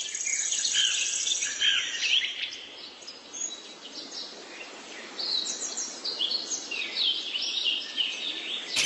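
Birds chirping: many short, high calls and trills overlapping over a steady background hiss.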